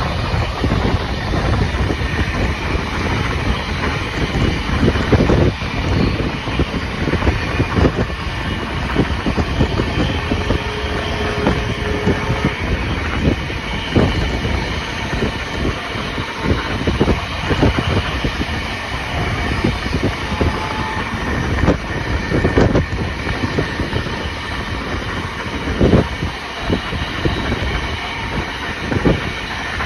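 Steam-hauled passenger train carriage running at speed: a steady heavy rumble of wheels on track, with irregularly spaced clicks and knocks as the wheels pass over rail joints.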